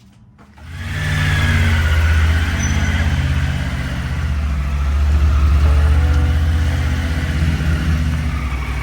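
A motor vehicle engine running steadily, starting up loudly about a second in.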